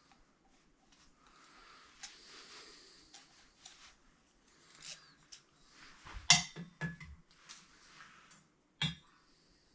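Scattered knocks, clinks and rustling as tools and fittings are handled during work in a small room, with the loudest knock a little past halfway and a sharp click near the end.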